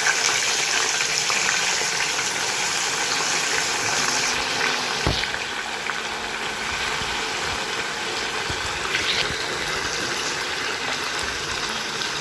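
Pressure-cooked chicken frying in hot coconut oil in a wok, a steady sizzle that eases a little about four seconds in, with a couple of light knocks.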